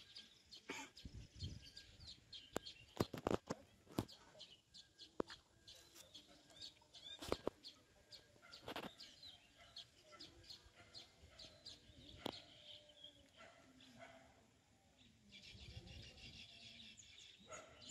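Small birds chirping with many short high calls, busiest near the end, over several sharp clicks and knocks, the loudest about three, seven and twelve seconds in.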